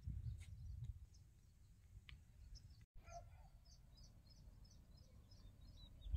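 Faint, rapid chirping of small birds, many short calls in quick succession, with a low rumble of wind or handling on the microphone in the first second.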